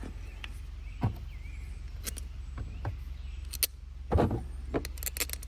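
Scattered light clicks and knocks of metal carburetor parts being handled and fitted, over a steady low hum.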